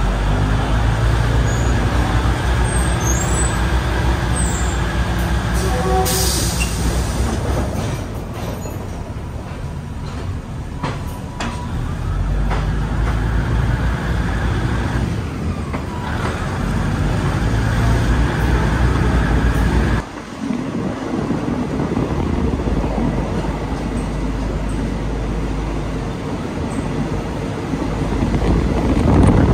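Diesel commuter train running, heard from inside a carriage with its door open: a steady engine drone and wheel rumble as it moves off and picks up speed. There is a short hiss about six seconds in, and the engine note drops briefly about twenty seconds in.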